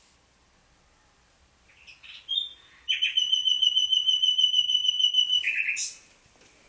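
A songbird singing: a few short chirps, then a long, loud, rapid trill on one steady pitch lasting nearly three seconds, ending in a couple of lower notes.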